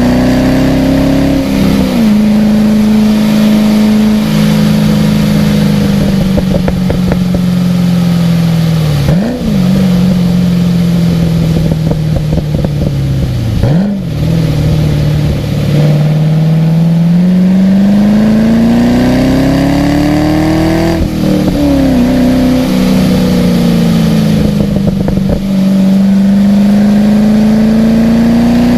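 Car engine on a track lap, its pitch rising and falling with the throttle. It slows through two quick rev blips on downshifts about 9 and 14 seconds in, pulls up steadily in one gear, then drops sharply at a gear change about 21 seconds in.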